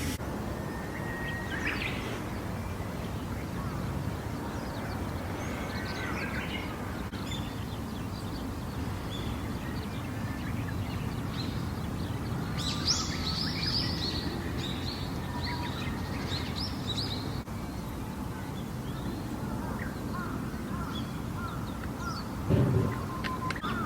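Scattered bird calls over a steady low background rumble, with a busier run of calls about halfway through and a dull thump near the end.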